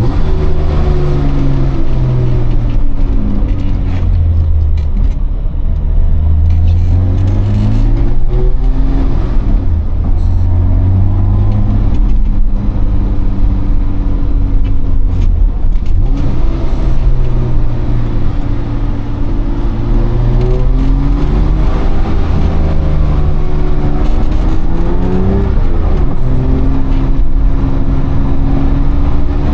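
BMW E30 325i's M20B25 inline-six through a cat-deleted Eisenmann exhaust, driven on the road: the engine note climbs as it revs up, then drops back several times at gear changes.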